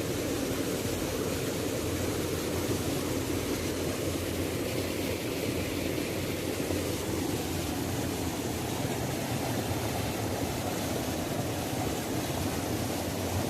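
Waterfall: water falling steadily in an even, unbroken rush with a low rumble underneath.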